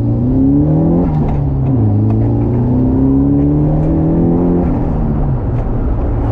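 Nissan S13's SR20DET turbocharged four-cylinder engine pulling under acceleration: the revs climb for about a second, drop sharply, then climb again for about three seconds before falling back and settling to a steady note.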